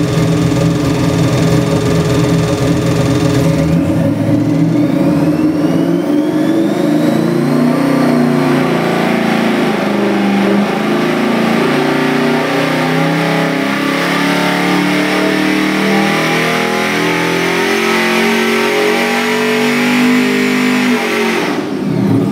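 ProCharged Ford 427 Windsor V8 crate engine making a dyno pull. It idles, then about four seconds in it revs up under load, its pitch climbing steadily with a high whine rising alongside, and it falls away off the throttle just before the end.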